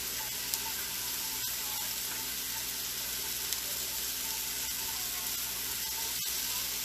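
Steak, mushrooms and red onions sizzling steadily on a hot stovetop griddle.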